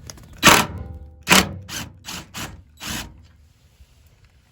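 DeWalt power driver with a T40 Torx bit run in about six short bursts, backing out the bolts of a Toyota Tundra's bed tie-down hooks.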